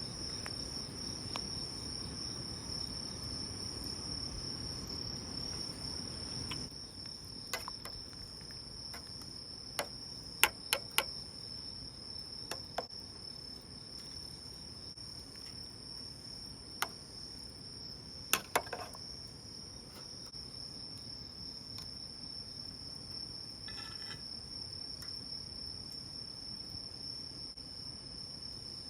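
Night insects, crickets, chirping in a steady high-pitched chorus. A few sharp clicks and knocks come through it, a quick cluster about ten seconds in and another near eighteen seconds.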